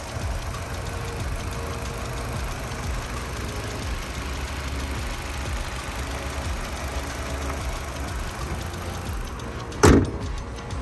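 A 2012 Nissan Qashqai's 1.6-litre petrol engine idling steadily, heard over the open engine bay. Near the end comes one loud bang as the bonnet is shut.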